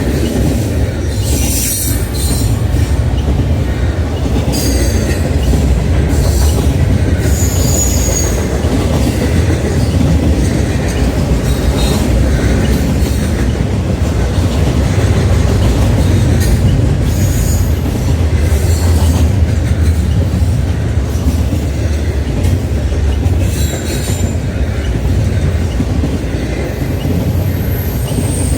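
Freight train rolling past, a steady heavy rumble of wheels on rail, with brief high-pitched wheel squeals coming and going.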